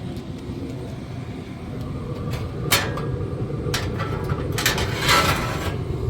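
Metal parts of a vertical pellet smoker clanking as they are set back in place: a sharp knock, another a second later, then a short run of clattering, over a steady low rumble.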